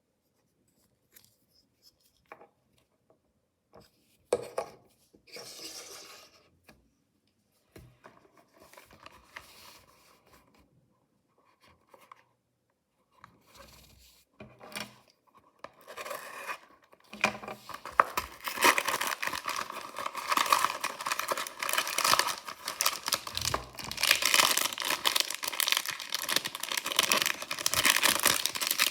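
A few scattered soft rustles and taps, then, from a little past halfway, continuous loud crinkling and tearing of a mystery toy package's wrapper as it is torn open.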